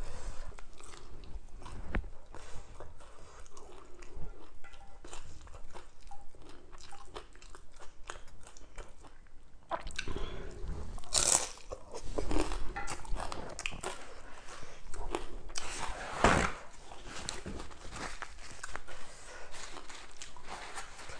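Close-miked chewing and crunching of a mouthful of green papaya salad and fresh lettuce: a run of small crackly chews, with several louder crisp crunches in the second half.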